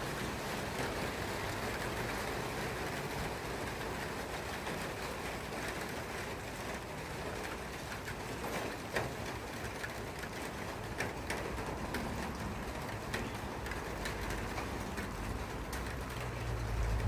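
Steady rain falling, with scattered drops ticking close by. A low rumble swells near the end.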